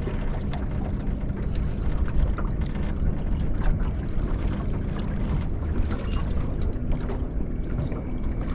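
Steady low rumble of wind on the microphone and water around a small fishing boat, with scattered small knocks and a faint steady hum that drops out a little past halfway.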